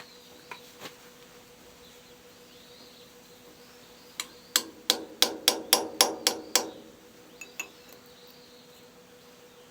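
A hammer striking metal on a Kubota B5001 tractor's front axle during disassembly: about nine blows in quick succession, roughly four a second, each ringing briefly. The axle's parts are badly seized.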